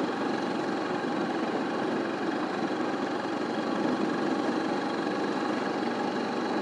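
A vehicle engine running steadily at an even pitch and level.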